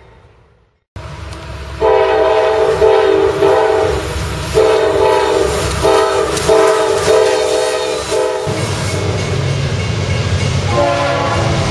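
Freight locomotive's multi-note air horn blown in a string of short blasts over the low rumble of the train, then falling silent while the rumble continues, with a fainter horn sounding again near the end.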